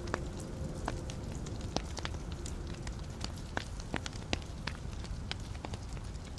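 Wood fire burning in a fireplace: a low steady rumble of the flames with irregular sharp crackles and pops from the logs, several a second.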